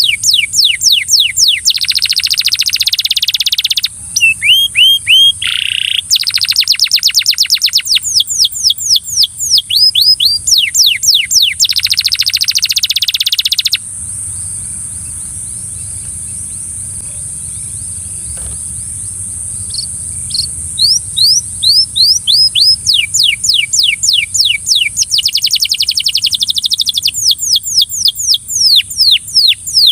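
Belgian canary singing: quick runs of repeated rising chirps alternating with fast rolling trills. The song breaks off for several seconds about halfway through, then starts up again.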